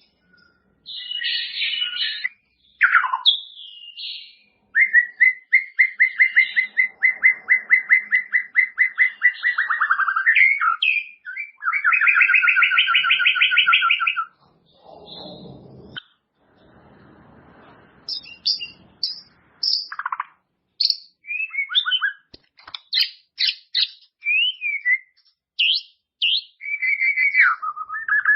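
White-rumped shama (murai batu) singing a varied song of clear whistled phrases. It includes a long run of rapid repeated notes lasting several seconds and then a second dense trill. After a short pause come separate sharp whistled notes and slurs.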